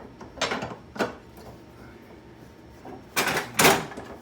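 Metal parts and hand tools knocking and rattling as a bracket is worked on in a car's engine bay: a few short knocks in the first second, then two louder clatters about half a second apart near the end.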